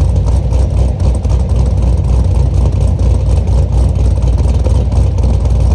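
Camaro's cammed LS3 V8 idling after a cold start, loud and steady, with the uneven, pulsing lope of an aftermarket GPI SS1 camshaft. The sound cuts off abruptly at the end.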